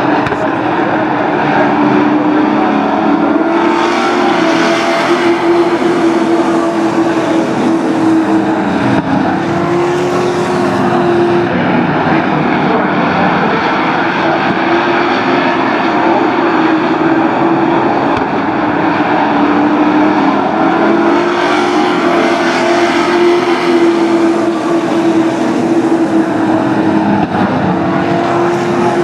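Sport trucks racing around a short oval track, their engines running hard at high revs. The sound swells several times as trucks pass close by.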